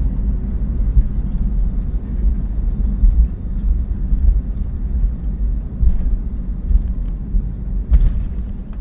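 Steady low rumble inside an Airbus A321neo cabin as the airliner rolls along the ground, with a sharp click about eight seconds in.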